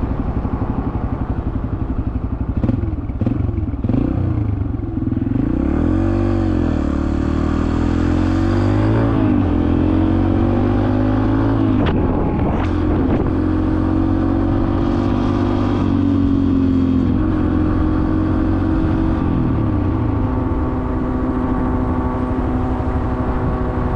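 2023 Yamaha TT-R125 dirt bike's small air-cooled four-stroke single being ridden. Its engine revs rise and fall several times, hold fairly steady through the middle, then drop briefly near the end.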